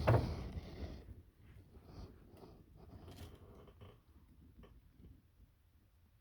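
A loud rustle in the first second, then scattered faint clicks and rustles.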